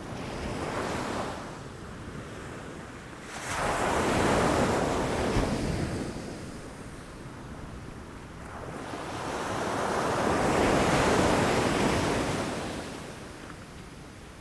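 Ocean waves washing against rocks: a small surge about a second in, a wave crashing in suddenly at about three and a half seconds, then a slower, bigger swell that builds and falls away in the second half.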